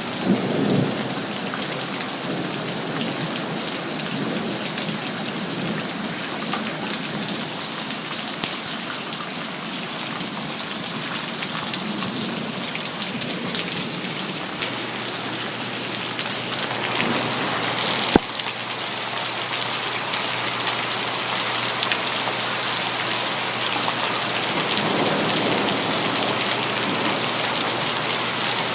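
Steady rain falling, with a low rumble of thunder in the first second. A single sharp crack comes about eighteen seconds in.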